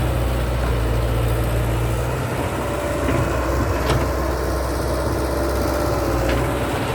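Caterpillar 312D hydraulic excavator's diesel engine running steadily, with a faint whine in the second half and a sharp click about four seconds in.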